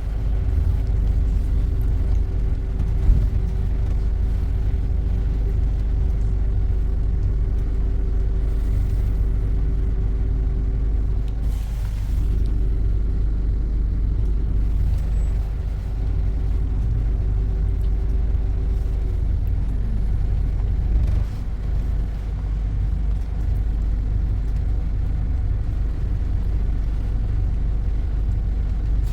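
Steady low rumble of a moving road vehicle in city traffic, with a steady hum that drops in pitch and dies away about two-thirds of the way through.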